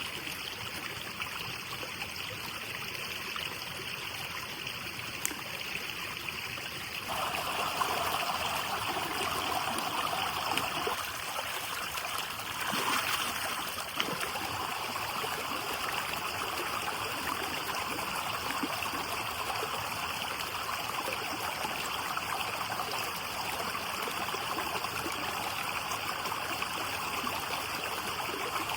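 Steady rush of running water, like a stream. It gets fuller about seven seconds in and swells briefly about halfway through, with a few faint ticks on top.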